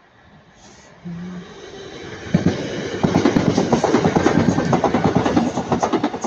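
Northern class 323 electric multiple unit passing close by. It builds up about a second in and is loudest from about two seconds on, with a rapid clatter of wheels over rail joints.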